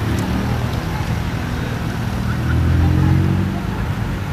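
Car engine running as a car drives across the lot, the engine note rising and getting louder about two and a half seconds in as it accelerates.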